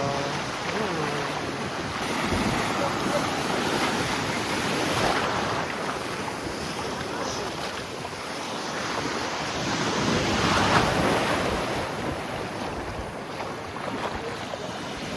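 Ocean surf washing in and out in slow swells, with wind buffeting the microphone.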